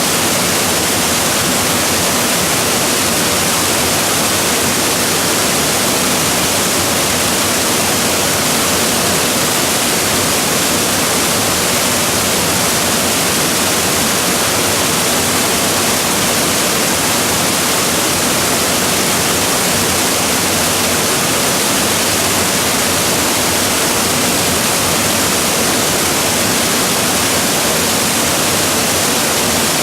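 Waterfall crashing steadily: a loud, even rush of falling water with most of its energy in the high hiss.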